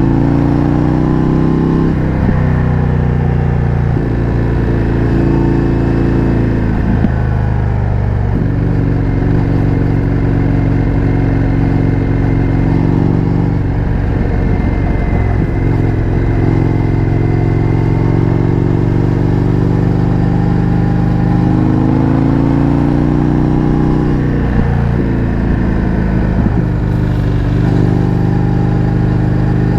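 Indian FTR 1200's V-twin engine through an Akrapovič exhaust, riding under way. It climbs in pitch as it pulls through the revs and drops back at gear changes several times.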